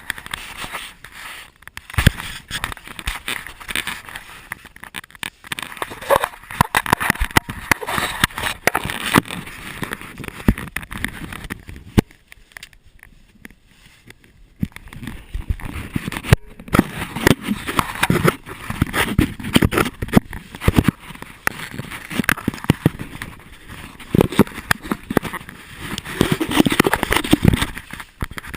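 Close, irregular scraping, rustling and scattered knocks of clothing and gear rubbing and bumping while moving, with a quieter lull partway through.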